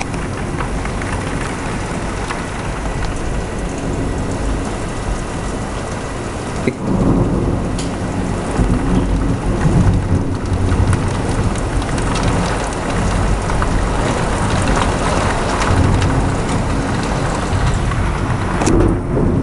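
Heavy rain falling steadily during a thunderstorm, with thunder rumbling. About seven seconds in, a sudden louder clap of thunder breaks in and keeps rumbling.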